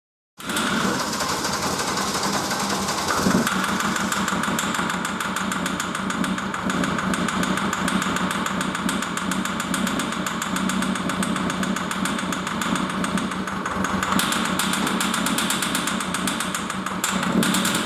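SsangYong Korando C 2.0 XDi diesel engine (671.950) running steadily at idle on a test stand, briefly a little louder near the end.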